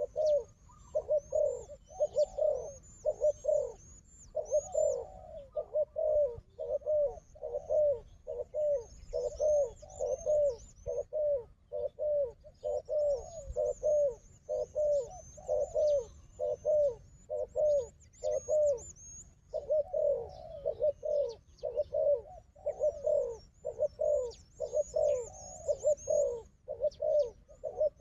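Spotted doves cooing over and over in quick overlapping phrases, territorial calling between a decoy dove and a wild dove. Small birds chirp high and thin at intervals above the coos.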